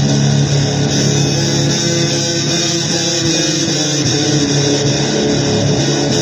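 Loud guitar noise music: a dense, continuous wall of guitar sound, with steady low tones that fade out about a second in.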